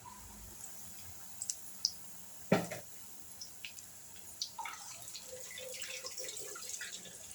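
Battered stuffed chillies deep-frying in hot oil: a faint sizzle with scattered pops and crackles. About two and a half seconds in comes one sharp knock, the loudest sound.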